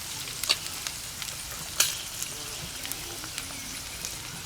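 Food frying in oil in a pan, with a steady sizzle. A utensil clicks and scrapes against the pan as the food is stirred and pushed aside; the sharpest click comes about two seconds in.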